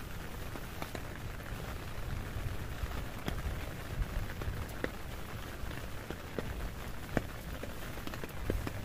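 Heavy rain falling: a steady hiss with scattered sharp drop impacts ticking, several a second.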